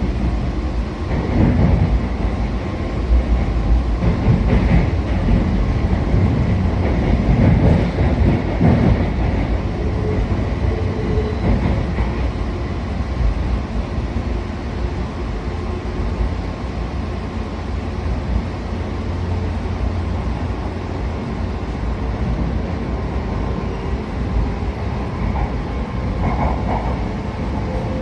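An electric train running on the rails: a steady deep rumble, with a run of knocks in the first several seconds and faint steady tones later on.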